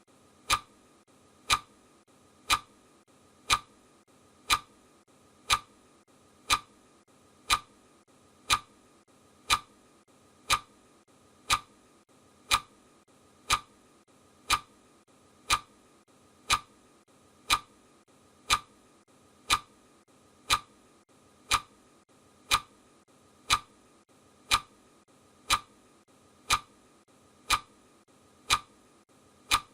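Steady ticking: one sharp tick about every second, evenly spaced, over a faint hiss.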